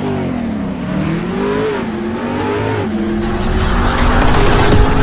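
KTM RC 390's single-cylinder engine being revved, its pitch rising and falling several times, then holding higher and louder near the end.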